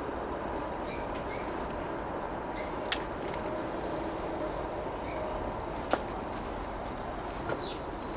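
Short, high bird chirps several times over a steady background hiss, with one falling chirp near the end. Two sharp clicks stand out, about three seconds apart.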